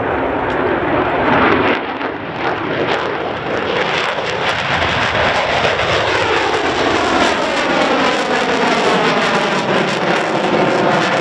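An aircraft flying past with a steady, loud engine noise, its pitch sweeping down as it goes by.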